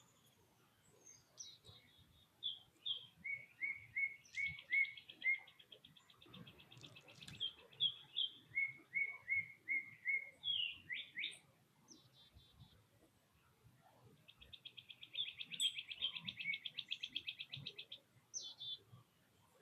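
Songbirds singing: runs of clear slurred whistled notes, about three a second, alternating with long rapid trills, one trill through the middle and another lasting several seconds near the end.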